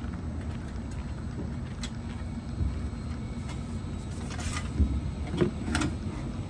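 Car repair shop noise: a steady low rumble with a few sharp clanks, the loudest nearly five seconds in and another near six seconds.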